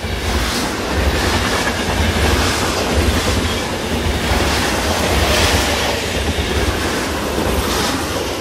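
A train running on rails, heard as a steady, loud rumble that begins to fade near the end.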